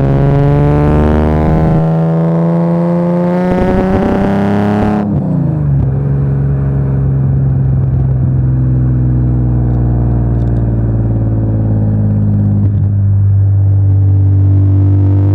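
BMW E36 M3 3.2 Evo's straight-six running through a new exhaust. The revs climb steadily, fall sharply about five seconds in, then rise slowly again for the rest of the time.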